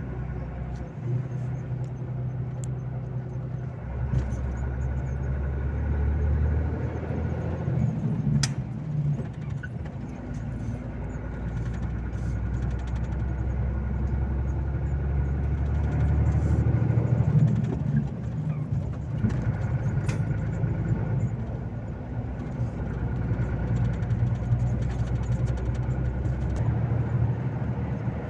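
Volvo FH 460 truck's 13-litre six-cylinder diesel running on the road, a steady low drone that swells a couple of times.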